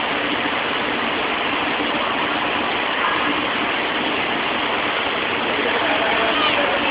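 Steady rushing noise of a 500 series Shinkansen train at the platform, even in level throughout.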